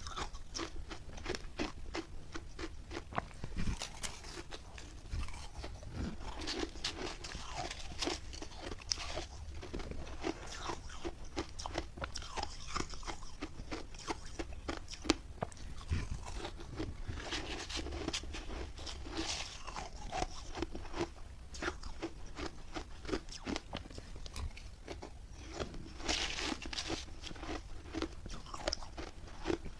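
Close-up crunching and chewing of refrozen milk-and-matcha ice: rapid, crisp cracking and crackling as the ice is bitten and ground between the teeth.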